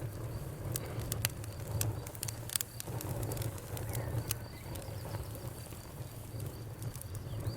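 Wood fire crackling: irregular sharp pops and snaps, several a second and some louder than others, over a steady low rumble of burning.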